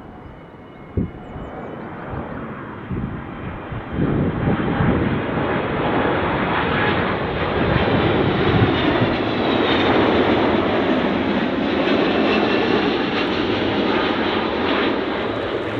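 Airliner on short final passing low overhead: engine noise with a high whine swells about four seconds in, stays loud and eases a little near the end. A brief thump about a second in.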